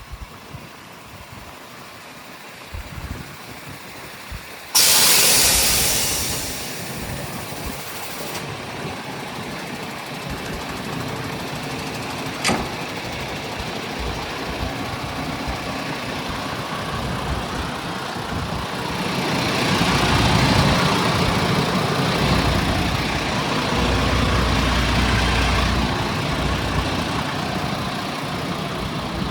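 MAN TGS 41.480 truck's diesel engine starting with a sudden loud hiss about five seconds in that fades over a few seconds, then running, growing louder and deeper for several seconds past the middle before easing back.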